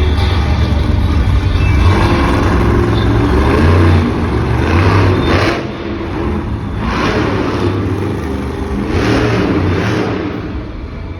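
Monster truck engine running hard and revving, a heavy low rumble followed by three loud surges about two seconds apart.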